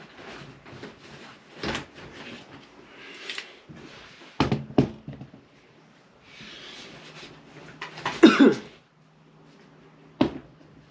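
Hand tools being rummaged through and handled on a workbench: a series of knocks and clatters, the loudest a little past the middle, with a brief sliding, rustling noise just before it.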